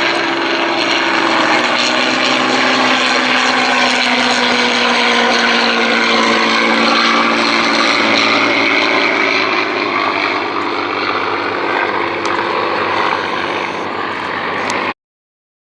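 Propeller-driven aircraft engine running loud and steady as the plane flies past, its pitch dropping a little as it goes by. The sound cuts off abruptly near the end.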